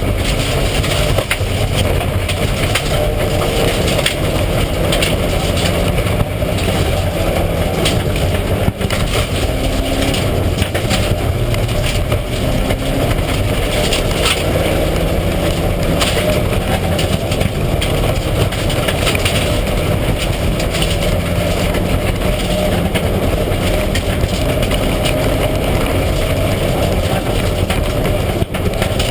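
Mitsubishi Lancer Evolution IX rally car driven hard on a stage: its turbocharged four-cylinder engine runs loud and continuously, rising and falling in pitch through gear changes, over heavy road and tyre noise with scattered short knocks.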